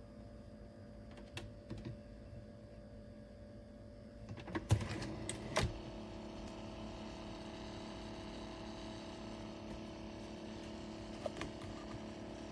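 Keurig K-Supreme Plus coffee maker being handled: a few light clicks, then a louder run of clicks and clunks about halfway through. Right after, the brewer starts a steady low hum that carries on, with one more click near the end.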